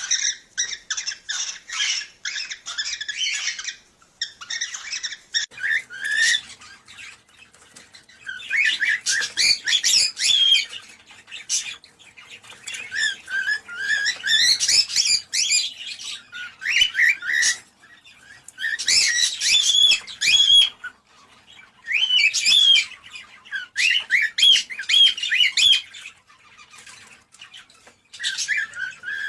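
Cockatiels chirping and warbling in bouts of one to four seconds with short pauses between: rapid chattering notes mixed with whistled rising and falling phrases.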